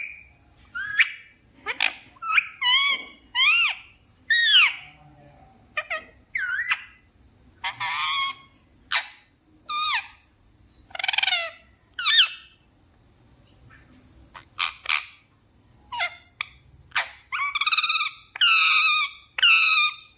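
Pet parrot calling: a string of short, high-pitched squawks and whistles with bending pitch, about one a second, with three loud calls in quick succession near the end.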